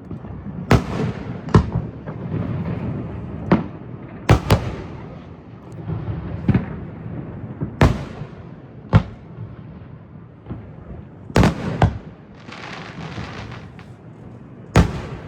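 Aerial fireworks bursting: about a dozen sharp bangs at uneven intervals, a few in quick pairs, with a low rumble between them. A burst of crackling comes about twelve seconds in.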